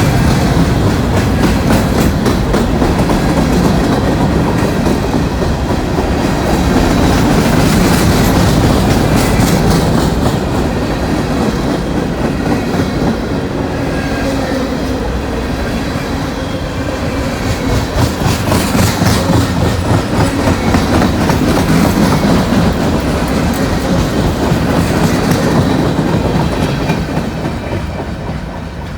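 Freight cars of a long intermodal train rolling past close by, a steady rumble with wheels clicking rhythmically over the rail joints, fading near the end as the train goes by.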